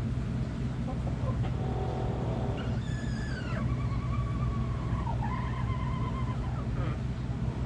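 A rooster crowing once: a long call of about four seconds, starting high, falling, then holding a long note. It follows a short hen-like call, over a steady low hum.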